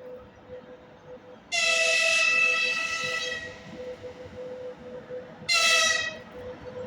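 VL80S electric locomotive horn: one long blast about a second and a half in, then a short blast near the end, each sagging slightly in pitch as it dies away. A faint steady hum runs underneath.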